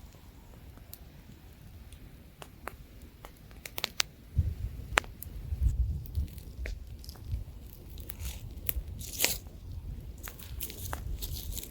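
Wood campfire crackling, with scattered sharp snaps and pops and a brief denser flurry of crackles with a hiss about nine seconds in. From about four seconds in, a low rumble of light wind joins underneath.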